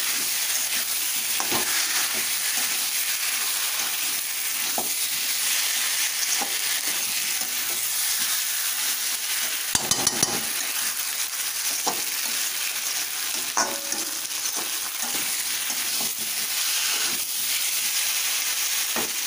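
Fried potato pieces sizzling in oil and spice paste in a metal kadai while a metal spatula stirs and turns them. There is a steady sizzle with occasional scrapes and taps of the spatula against the pan, a few of them close together about ten seconds in.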